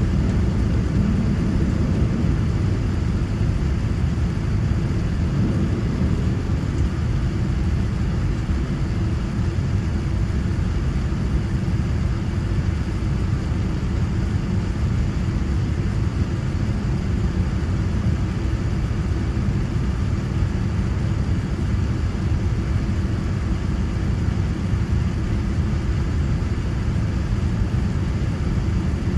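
Steady low rumble of a Boeing 787-9's engines and cabin, heard from inside the airliner, with no change in level throughout.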